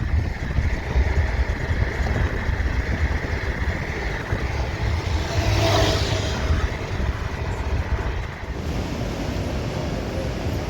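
Street traffic: a steady low rumble of road vehicles, with one passing louder a little past halfway.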